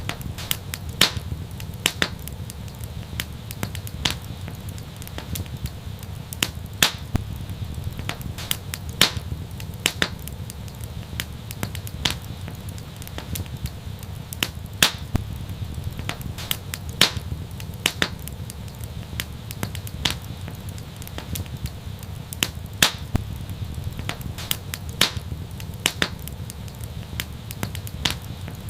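Fire in an outdoor fireplace crackling: irregular sharp pops over a steady low rumble.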